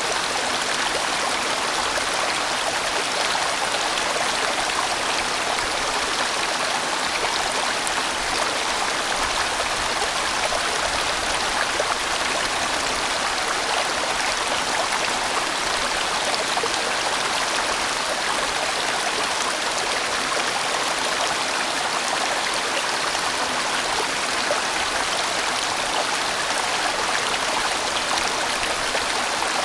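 A sizeable valley stream flowing steadily: an even, unbroken rush of water.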